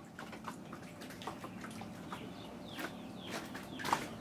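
Birds chirping: a string of short calls that slide downward in pitch, coming every fraction of a second, the loudest about four seconds in.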